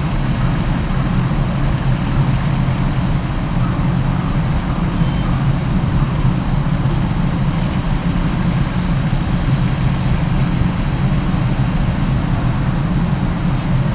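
Steady low mechanical drone of a large ferry's engines and machinery running during docking, with no change in pitch or level.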